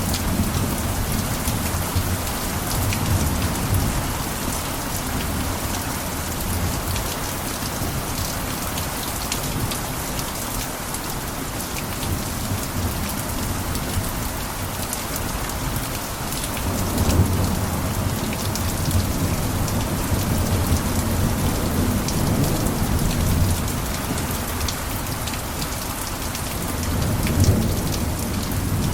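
Heavy rain falling steadily on a rooftop, a dense hiss flecked with individual drop ticks. Low rumbling swells come in about seventeen seconds in and again near the end.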